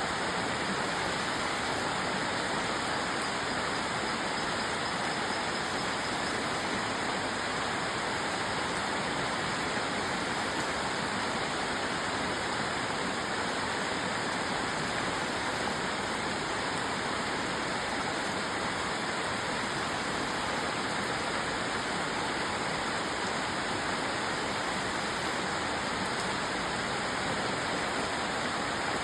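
Steady rainfall: an even, unbroken hiss with no single drops standing out.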